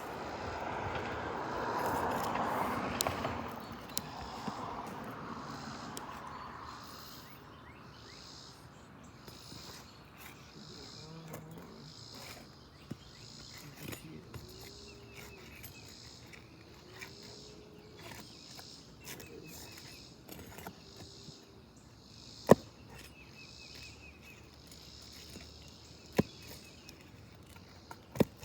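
Outdoor ambience with insects chirping in a high band that pulses about once a second. A broad swell of noise fades out by about seven seconds in, and later come three sharp knocks, the first the loudest.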